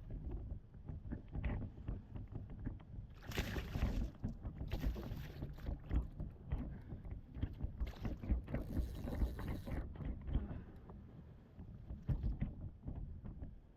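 Wind and water noise on a fishing kayak: low, uneven rumbling buffeting on the microphone, broken by several short bursts of hissing noise between about three and ten seconds in.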